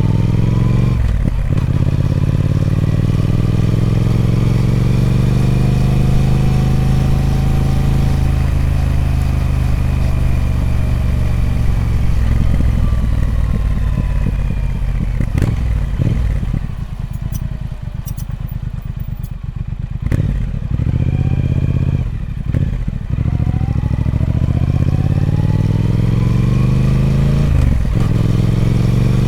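Triumph Speed Twin 1200's 1200cc parallel-twin engine on its stock exhaust under riding load. It rises and falls in pitch through a series of gear changes, with brief dips at each shift. A quieter stretch of closed-throttle running comes about halfway through, then the engine pulls hard again, climbing through the gears near the end.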